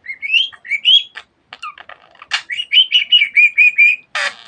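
Budgerigar chirping and warbling: a few rising chirps, then a quick run of warbled notes, ending in a short harsh burst.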